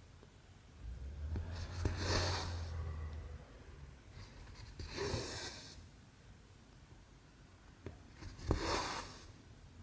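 Cotton embroidery thread being drawn through cross-stitch fabric, three hissing pulls about three seconds apart, with a few faint clicks of the needle.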